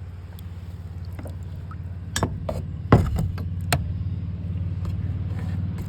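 Steady low rumble of moving creek water, with a handful of sharp knocks and clinks from about two to four seconds in, the loudest near three seconds, as a glass bottle is worked loose and handled.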